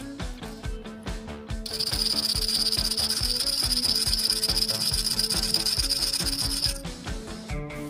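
Background music with a steady beat. About one and a half seconds in, a loud, steady high-pitched hiss starts over it, runs for about five seconds, then stops.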